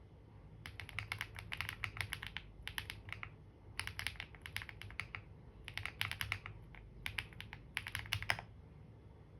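Typing on a computer keyboard: rapid keystrokes in about four bursts separated by short pauses. The typing stops about a second before the end.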